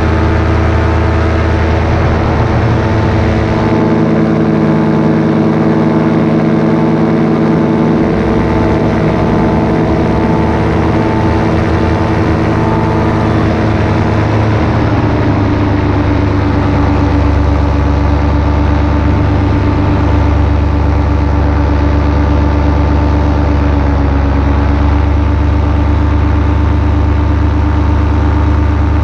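Paramotor engine and propeller running steadily in flight, loud and close; the engine note drops slightly about halfway through as the throttle eases back.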